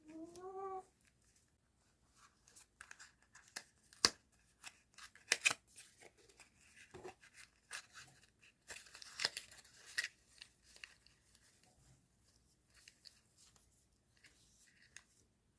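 Paper and plastic stationery packaging being handled and opened by hand: scattered snips, clicks, crinkling and tearing. A brief rising hum-like tone sounds at the very start.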